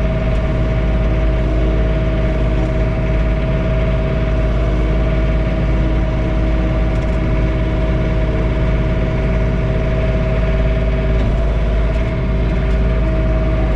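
John Deere 3046R compact tractor's diesel engine running steadily, heard from inside the closed cab, with a steady whine over the engine drone.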